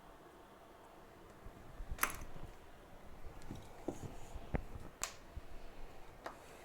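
Faint small clicks and light knocks of hand tools handled on a repair bench. Two sharper clicks come about two and five seconds in.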